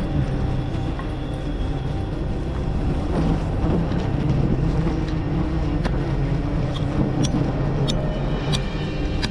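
Steady droning hum of a mass of honeybees buzzing around a wild nest, with a few faint ticks in the second half.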